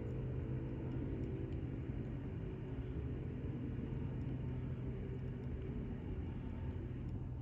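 Jet engine rumble of a Boeing 737-800 with twin CFM56-7B turbofans climbing away after takeoff, a steady low drone whose higher tones fade over the last few seconds.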